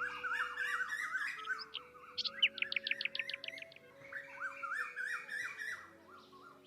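Birds singing in warbling, repeated phrases, with a quick run of sharp chirps about halfway through, over soft background music with long held notes.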